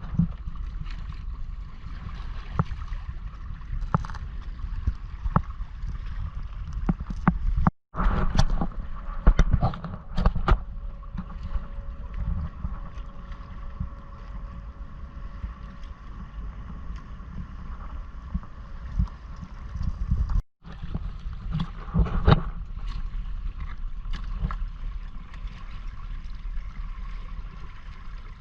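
Wind buffeting the microphone and water splashing and gurgling against a Hobie Island sailing kayak's hull as it moves through the water, with frequent short slaps. The sound drops out for an instant twice, about 8 and 20 seconds in.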